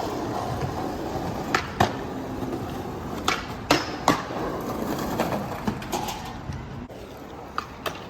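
Skateboard wheels rolling on pavement, broken by several sharp clacks and knocks of the board: a pair about one and a half seconds in, three in quick succession a little later, and a few fainter ones near the end.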